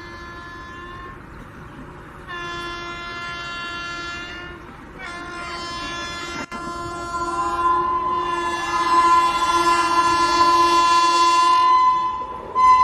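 Locomotive horn blowing in long blasts: one ending about a second in, another from about two seconds in, then a long blast from about five seconds in that grows louder as it goes on.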